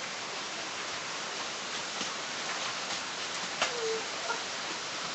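Steady rain falling, an even hiss, with a brief faint voice about three and a half seconds in.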